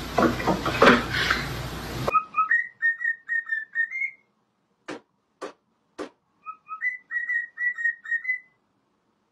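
Over a steady hiss, a few loud noisy bursts in the first second or so, then a sudden cut. After it a pet bird whistles two runs of short repeated notes, each ending a little higher, with single sharp clicks between and after the runs.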